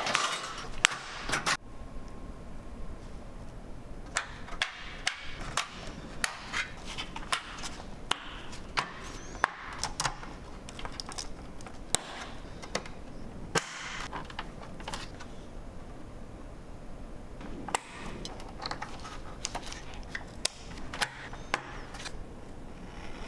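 Irregular sharp clicks and knocks of hard plastic and metal computer parts being handled and worked on by hand, some strokes louder than others, spaced unevenly.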